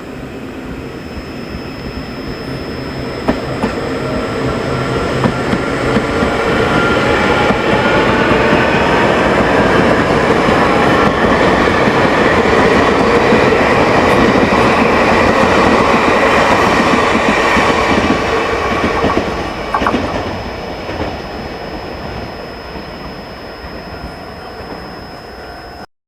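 A train running past at the platform. It grows louder over several seconds, stays loud for about ten, then fades. Under the rumble and clatter of the wheels, several whining tones glide slightly upward.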